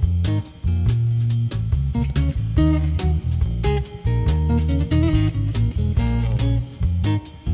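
Instrumental music: plucked guitar over a bass guitar line, playing a slow bluesy groove with no singing.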